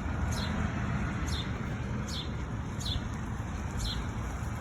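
A small bird calling over and over, five short high chirps that each slide downward, about one a second, over a steady low outdoor rumble.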